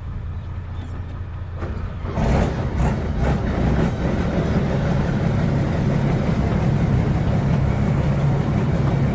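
Large vehicle engine running. About two seconds in it grows louder with a few metallic clanks, then it runs steadily at the higher level.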